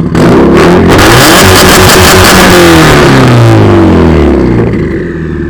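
Loud turbocharged flat-four of a 2015 Subaru STI, straight-piped through a Tomei exhaust and catless downpipe, snapped up from idle to high revs and held for about three and a half seconds, then falling back to idle.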